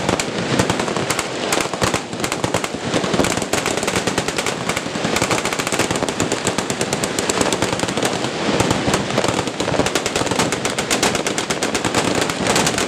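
Many machine guns firing at once in overlapping bursts, a continuous crackle of automatic fire with no break.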